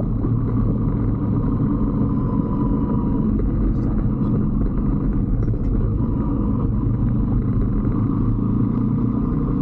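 Single-cylinder 125cc Brixton motorcycle engine running steadily at riding speed, under a steady low rumble of road and wind noise.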